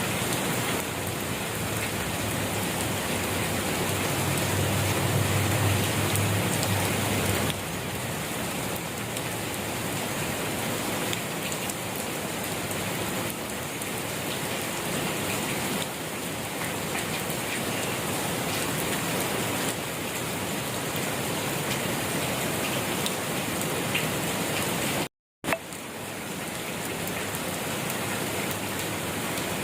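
Steady gentle rain falling on surfaces, an even hiss with a low rumble underneath for the first several seconds. The sound cuts out for a split second about 25 seconds in, with a click as it returns.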